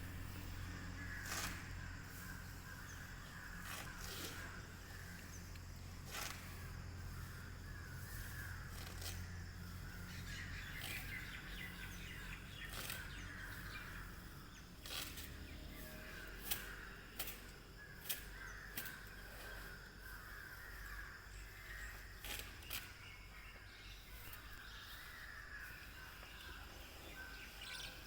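Birds calling, harsh caw-like calls in patches every few seconds, with scattered sharp clicks. A low hum fades out about halfway through.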